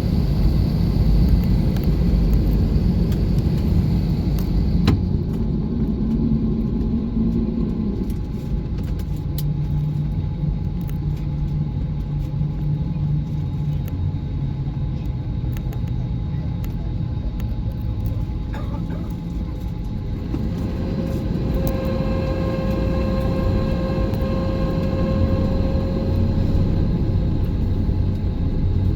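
Airbus A320 cabin noise on the ground before takeoff: a steady low rumble with faint whining tones that come and go, and a single click about five seconds in.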